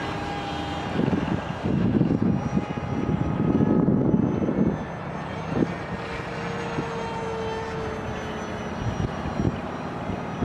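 Radio-controlled floatplane's motor whining steadily in flight, its pitch drifting slightly, with gusts of strong wind buffeting the microphone from about one to five seconds in.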